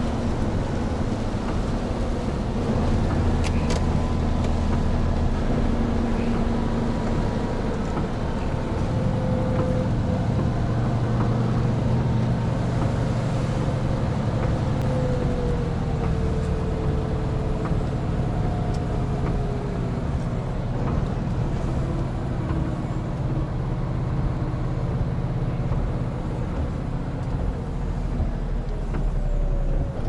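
Hino Profia heavy truck's diesel engine running steadily while driving, with continuous tyre and road noise on a rain-wet expressway. The engine's low hum gets stronger about a third of the way in.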